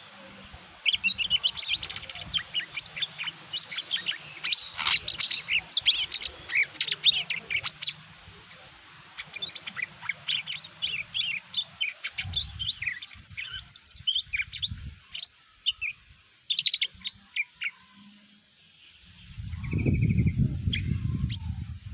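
Lesser green leafbird (cucak ijo mini) singing a fast, varied run of high chirps and whistles, thinning out after about 15 seconds. A loud low rumble joins near the end.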